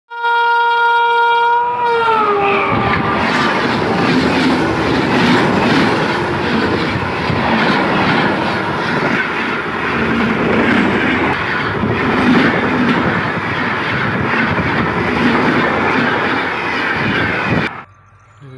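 Rajdhani Express train passing at speed: its horn sounds for about two seconds and drops in pitch as the locomotive goes by, then the coaches rumble and clatter over the rail joints. The sound cuts off suddenly near the end.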